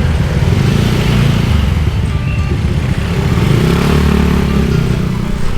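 Motorbike engine running while riding through traffic, picking up revs about three seconds in.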